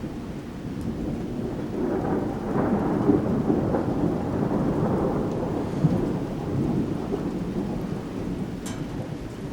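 Thunder rolling and rumbling through steady rain, swelling about two seconds in and slowly fading toward the end.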